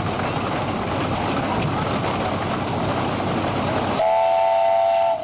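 A steady, rushing noise, then about four seconds in a steam traction engine's whistle blows one long, steady blast of several close tones, cutting off near the end.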